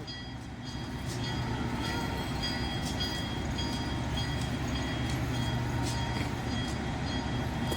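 Diesel locomotive rumbling steadily as it slowly moves a string of railroad cars up during switching. A faint, steady high whine runs over it, with scattered light clicks.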